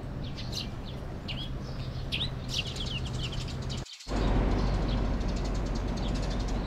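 Small birds chirping in short, quick falling notes over steady outdoor street ambience. About four seconds in the sound cuts briefly and a louder, steady low rumble of street noise takes over.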